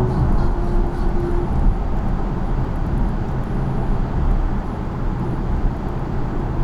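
Steady low road and tyre rumble of a Polestar 2 electric car driving.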